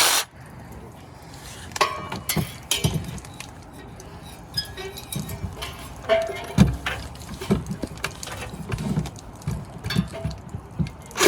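Scattered metallic clinks, taps and knocks as tools and the exhaust pipe are handled while getting ready to cut off a car's muffler. Right at the end a power cutting tool starts up loudly.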